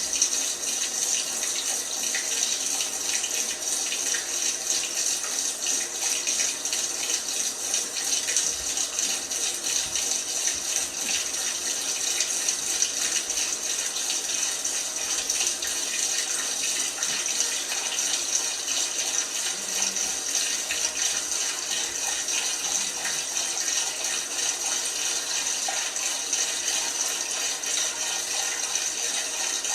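LG washing machine filling with water: a steady hiss of water running into the machine.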